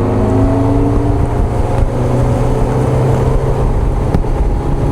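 A jonboat's outboard motor running under way, its pitch climbing in the first half second as it speeds up, then holding steady.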